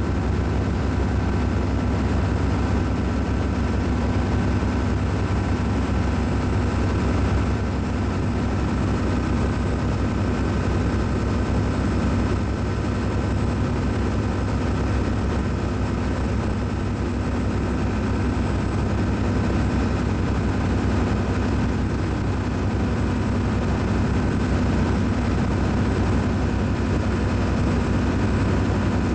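Steady low drone of a cruise ship's machinery, even in level, with faint steady whining tones above it.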